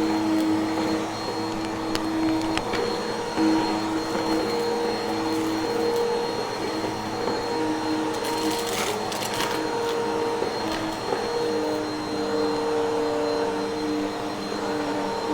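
Vacuum cleaner running steadily, its motor hum holding several fixed tones. A short cluster of crackling clicks comes about eight to nine seconds in.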